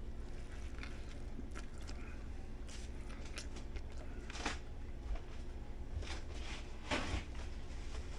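Faint, scattered clicks and rustles of handling over a steady low hum, with two slightly louder rustles about four and a half seconds and seven seconds in.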